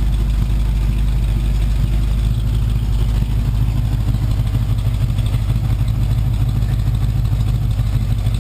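1977 Chevrolet Camaro's 350 small-block V8 idling steadily after a cold start.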